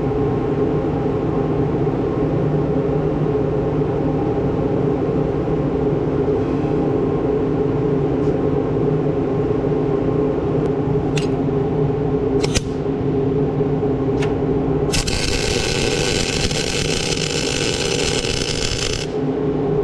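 A motor running with a steady hum, with a few sharp clicks in the middle. Near the end comes about four seconds of loud crackling hiss, the sound of arc welding steel onto the tensioner shaft.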